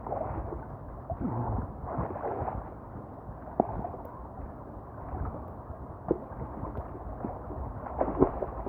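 Water sloshing and gurgling around a swimmer, with a few sharp splashes.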